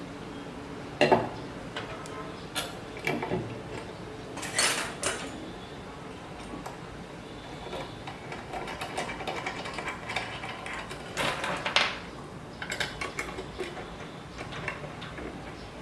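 Metal parts and tools clinking and knocking as linear rails are fitted to a CNC Z-axis assembly: irregular sharp clinks, the loudest about a second in and again about three-quarters of the way through, with a softer rattle in between.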